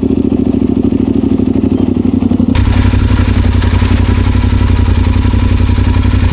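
Yamaha Super Ténéré's parallel-twin engine running steadily under way. About two and a half seconds in, the sound changes abruptly and a broad wind rush joins the engine.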